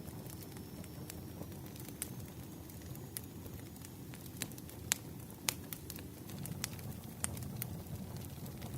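Wood fire crackling: burning firewood with a low, steady rumble and scattered sharp pops, two of them louder about halfway through.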